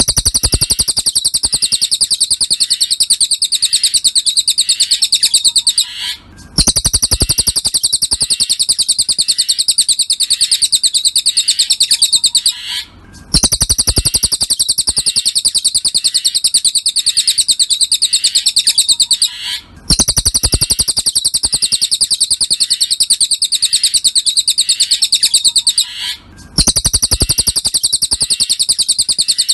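Looped masteran recording of cililin song: a loud, very rapid high-pitched chattering trill. It comes in phrases of about six seconds, each followed by a brief break before the next starts.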